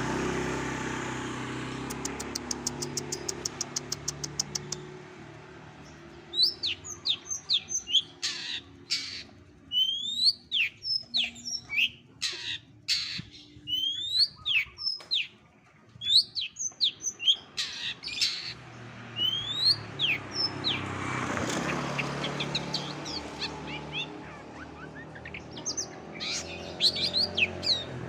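Long-tailed shrike (cendet) singing a varied mimicking song: a fast dry rattle near the start, then a string of sharp rising and falling whistled notes. A low steady rumble of background noise sits underneath.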